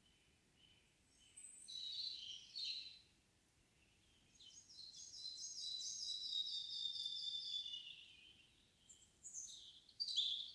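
Forest songbirds singing: a short phrase, then a long, rapid trill of repeated notes that slowly falls in pitch, then two more short phrases near the end.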